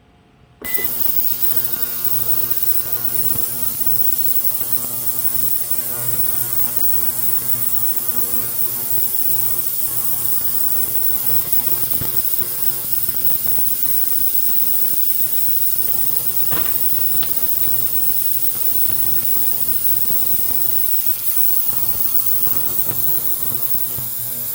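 A steady mechanical running sound that starts abruptly about a second in and holds an even level, with a brief sharp click near the two-thirds mark.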